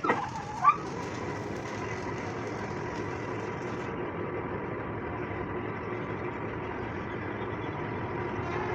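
A machine or engine running steadily with a constant hum, after two short sharp sounds with a brief squeal-like glide in the first second.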